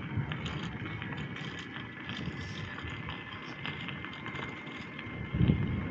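Wind buffeting the microphone of a moving bicycle, over the bike's rolling and drivetrain noise, with one stronger gust about five and a half seconds in.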